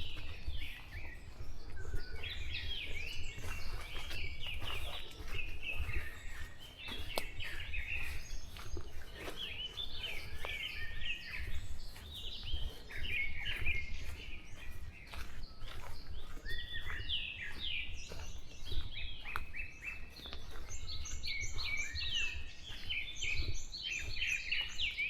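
Dawn chorus of several songbirds chirping and singing, with a fast series of high repeated notes joining about twenty seconds in, over a low steady background rumble.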